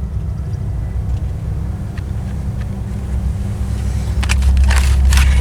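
Car running on the road, a steady low rumble that gets louder about four seconds in, with a few short rustling knocks near the end.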